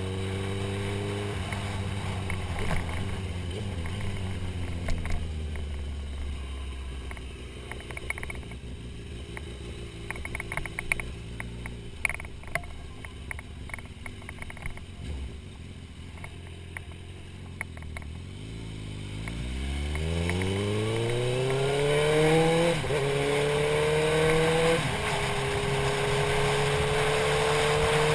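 Motorcycle engine heard from a helmet camera: it winds down, runs low for a while with scattered clicks, then accelerates hard about two-thirds of the way in, shifting up twice before settling into steady cruising.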